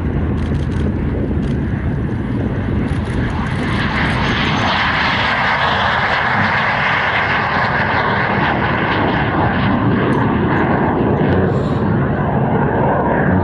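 BAC Jet Provost T5A jet trainer's Viper turbojet flying past: a loud, rushing roar that swells over the first few seconds and then fades.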